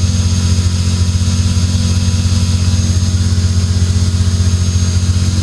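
Ferrari F355's 3.5-litre V8 idling steadily through an exhaust with no muffler, only headers and a custom pipe. Over the even idle sits a faint, steady high-pitched whine: the secondary air pump running after a cold start.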